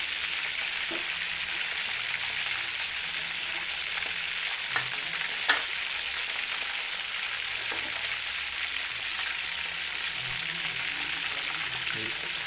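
Chicken and pork belly pieces frying in hot oil in a wok: a steady sizzle, with a couple of sharp pops about five seconds in.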